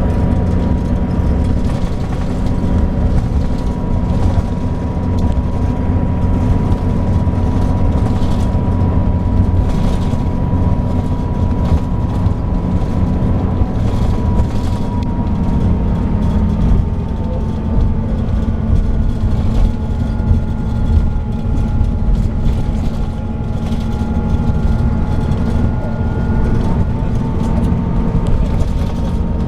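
A Scania DSC9 six-cylinder diesel in a 2007 Scania K340IB coach running steadily as the bus drives, with a deep drone and a thin steady whine. The whine drops slightly in pitch about halfway through, and a second, higher whine joins it in the latter part.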